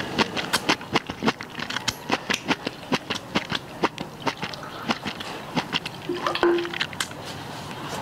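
Close-up eating sounds of a man chewing a mouthful of deep-fried fish: a quick, irregular run of wet clicks and smacks from his mouth, with a brief hum a little after six seconds.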